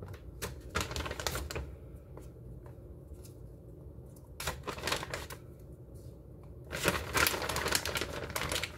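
Raw potato slices being laid by hand into a cast iron skillet: scattered light taps and clicks of slices against each other and the pan, then a denser clatter and rustle for about two seconds near the end, over a low steady hum.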